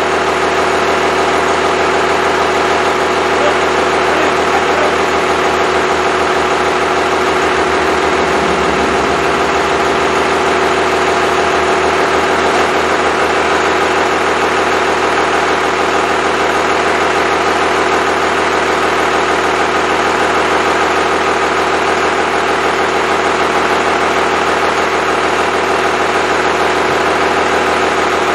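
Freshly rebuilt Cummins 5.9L 12-valve inline-six diesel idling steadily.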